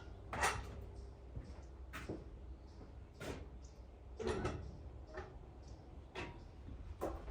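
A series of short knocks and bumps, roughly one a second, over a low steady hum.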